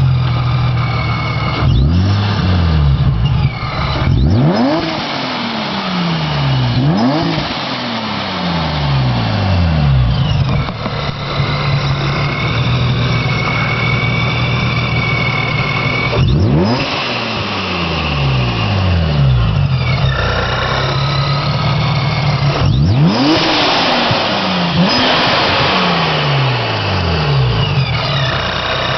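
2004 Infiniti G35's 3.5-litre V6 with a Vortech centrifugal supercharger, idling and revved in quick blips about six times, each rev dropping back to idle. A high whine slides down in pitch as the revs fall.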